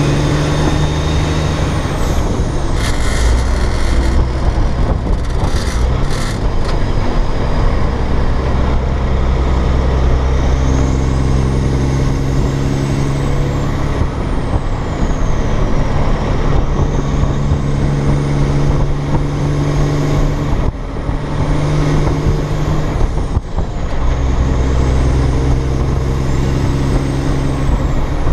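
Cat C15 diesel engine of a dump truck pulling under load, its note breaking off and picking up again several times as the 13-speed Eaton Fuller transmission is shifted without the clutch. A high whistle rises and falls over the engine.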